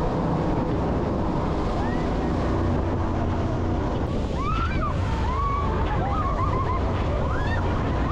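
Jet boat running at speed across open water: a steady engine hum under the rush of water and wind buffeting the microphone. From about four seconds in, voices rise and fall over the noise.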